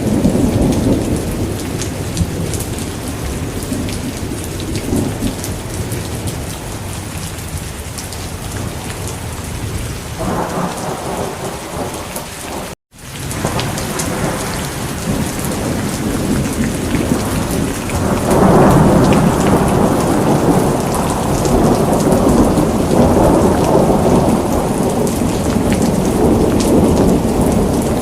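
Steady heavy rain with rolling thunder rumbling under it, swelling about 10 seconds in and again more strongly from about 18 seconds on. The sound drops out for an instant near the middle.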